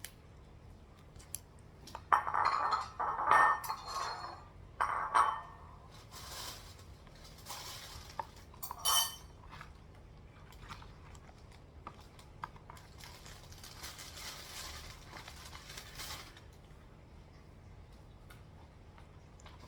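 Cutlery clinking and knocking against dishes: a run of sharp clinks between about two and five seconds in, one more near nine seconds, then softer, noisier handling sounds that die away near the end.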